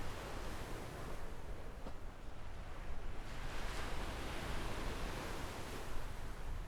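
Small waves breaking and washing up a sandy beach, with the wash swelling about three seconds in.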